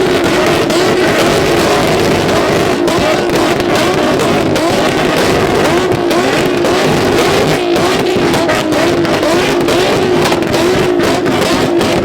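A car engine held on a two-step launch limiter, its high revs bouncing up and down against the limit, with irregular sharp exhaust cracks.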